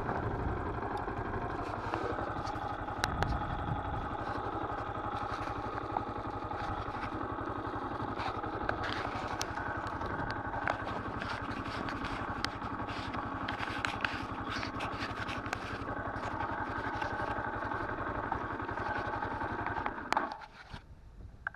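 Viper R2 motorcycle engine running at a steady speed, with scattered clicks and rattles over it; the engine sound cuts off suddenly about twenty seconds in.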